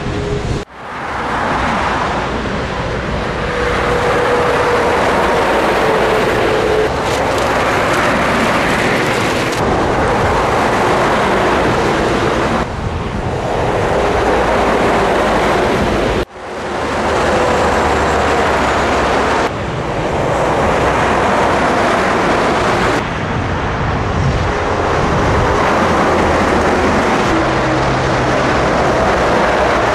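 Scania trucks driving on the road: steady engine and tyre noise in a string of short clips, with abrupt jumps in the sound at each cut.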